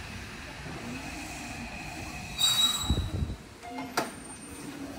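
Hanshin Jet Silver electric commuter train rolling into the platform and braking to a stop: a low running rumble, then about two and a half seconds in a short loud burst of high brake squeal with a low thud as it halts. A single sharp click follows about a second and a half later.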